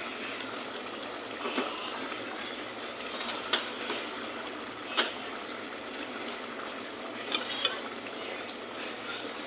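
Food cooking in a pan with a steady hiss, while a metal utensil stirs it and clinks against the pan about five times.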